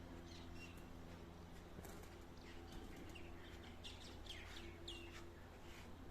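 Birds chirping: a scatter of short, quick chirps that fall in pitch, busiest toward the middle, over a faint steady low hum.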